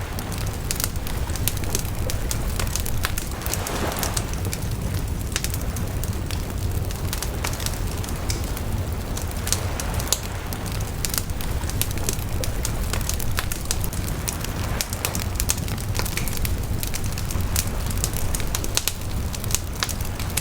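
Wood bonfire crackling, with constant sharp pops and snaps over a steady low rumble.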